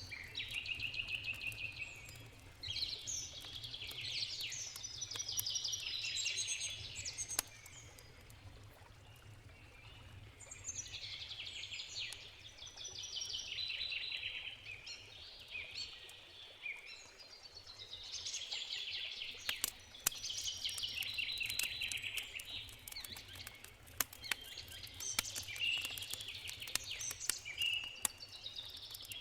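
A songbird sings long, busy, high warbling phrases, about five of them, each a few seconds long with short pauses between. Underneath, a campfire crackles with sharp pops, more often in the second half, over a steady low rumble of a river.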